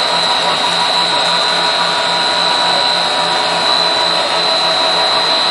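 Food processing machinery on a snack production line running steadily: constant loud mechanical noise with a high-pitched whine and a low, regular pulsing.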